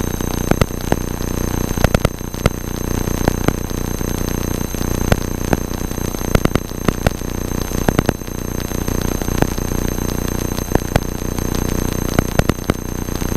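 Cessna 172 cockpit audio: the steady drone of the engine and airframe, overlaid by electrical interference. The interference is a thin high-pitched whine plus irregular crackling clicks.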